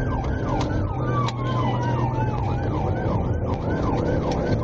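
Police car siren in yelp mode, its pitch sweeping down over and over, about three times a second, over a steady engine hum. A second siren tone slowly falls in pitch through the first three seconds.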